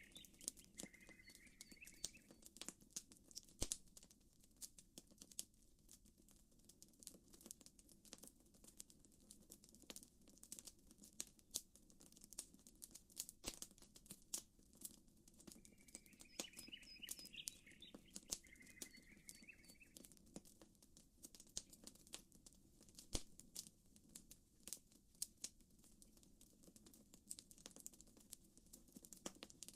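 Campfire crackling: many sharp, irregular pops and snaps over a soft, steady low hiss. A short chirping call comes twice, once right at the start and again about 16 seconds later.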